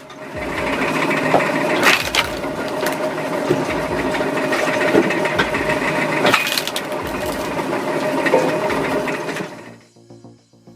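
A homemade wood-cutting machine running steadily as it cuts wood, with a constant hum and scattered cracks and knocks from the wood. It stops suddenly near the end.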